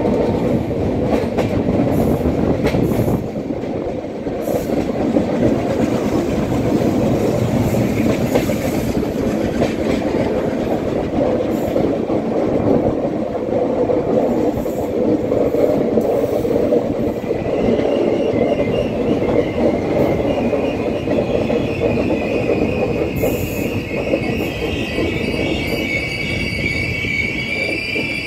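Two passenger trains running side by side on parallel tracks, heard at close range: a steady rumble of steel wheels on rail. From a little past halfway, high wheel squeal sets in and keeps growing stronger.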